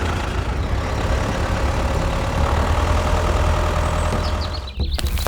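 An engine running at idle with a steady low rumble, cut off briefly about five seconds in.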